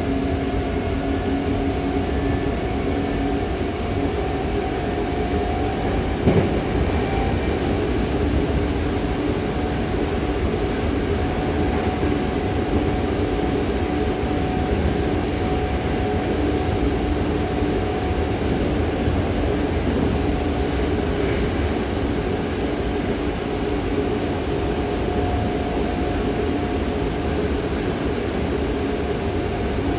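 Hankyu electric train running between stations, heard inside the passenger car: a steady rumble of wheels on rail with a hum held over it, and a single knock about six seconds in.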